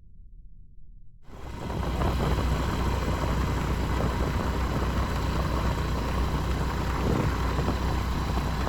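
Motorcycle engine running steadily, cutting in abruptly about a second in.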